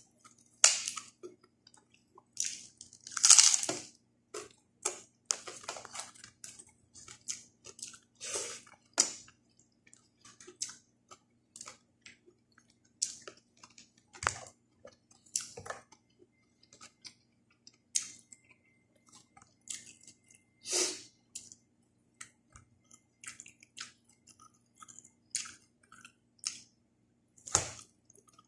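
Close-miked chewing and mouth sounds of a person eating fish and raw vegetables by hand, in irregular short bursts that are loudest about three seconds in and again around twenty seconds. A faint steady hum runs underneath.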